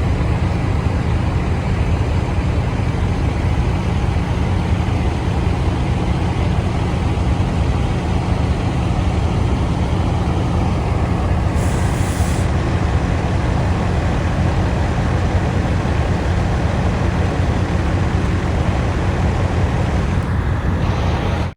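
Semi truck's diesel engine running steadily with a deep, even hum. A brief high hiss comes about twelve seconds in.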